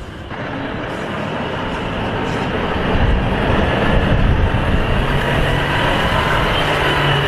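Heavy haulage truck running, with low engine rumble and road noise that grow louder over the first three seconds, then hold steady.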